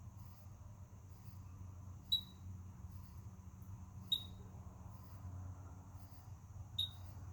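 Three short, sharp high-pitched chirps, about two seconds apart, each dropping quickly in pitch; the uploader takes them for a bird but is not sure what makes them. A faint low hum runs underneath.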